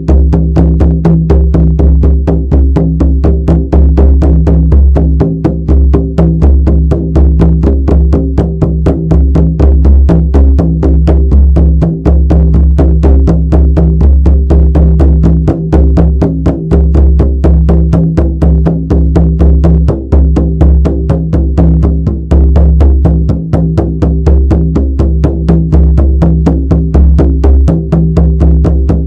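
Shamanic frame drum beaten in a steady, fast, unbroken rhythm of about four strokes a second, each stroke ringing into a deep, sustained boom.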